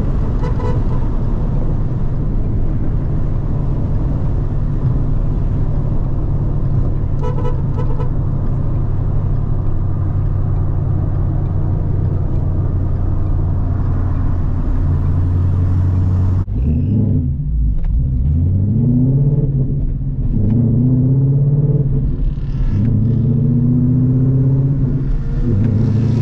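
Ford Mustang engine droning steadily at cruise, with two short horn toots near the start and about seven seconds in. About sixteen seconds in the engine is revved hard, its pitch climbing and dropping several times as it accelerates.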